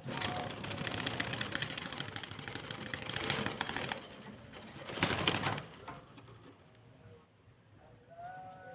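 Starling giving harsh, raspy chattering calls for about four seconds, then a louder short burst around five seconds in. Near the end come a few quieter whistled notes.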